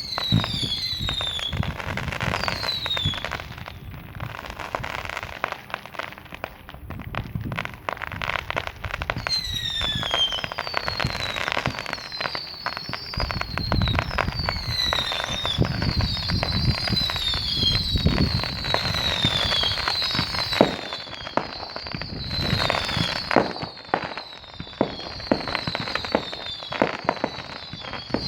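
Fireworks going off without a break: many whistling fireworks giving short falling whistles, over dense crackling and bangs, with several sharper bangs in the last several seconds.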